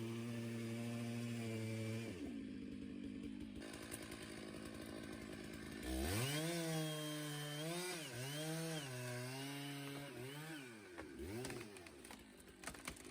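Petrol chainsaw: a steady engine note cuts off about two seconds in, then a saw revs up about six seconds in and its pitch dips several times as it works, before dropping away near the end, with a few sharp clicks.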